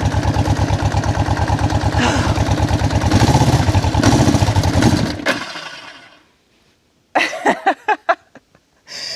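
1973 Yamaha TX500's parallel-twin engine running with an even, rapid pulse just after a cold kick start, louder for a moment around three to four seconds in, then dying out a little after five seconds: with the choke on only one click it has too little choke to keep running. Near the end come a few short vocal sounds from a person.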